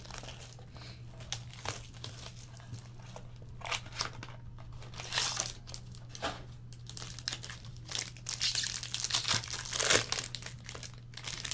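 Plastic wrapping crinkling and tearing in irregular rustles as a sealed trading-card pack is opened, busiest about halfway through and again near the end. A steady low hum runs underneath.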